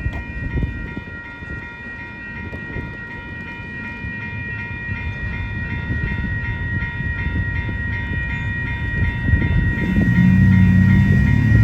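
Railroad crossing bell ringing in a fast, even repeat over the rumble and wheel clatter of a passing Union Pacific intermodal freight train. A louder low rumble comes in near the end.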